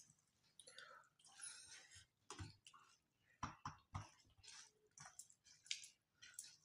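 Faint eating sounds: soft chewing and mouth smacks with scattered small clicks, as two people eat rice with their fingers from steel plates.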